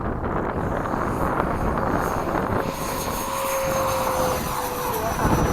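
Electric ducted fan of a 90 mm RC F-22 jet spooling up for its takeoff roll, a high whine coming in about two seconds in over heavy wind buffeting on the microphone.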